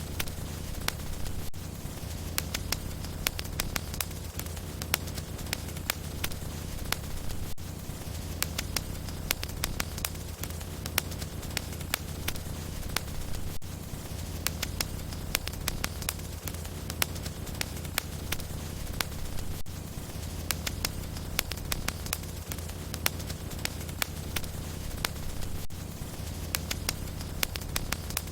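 Wood logs burning in a fireplace: sharp, irregular crackles and pops, several a second, over a steady low rumble of the flames.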